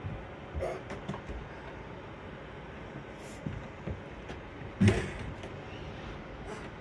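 A few short knocks and thumps over a steady background hum, the loudest a sharp bang about five seconds in.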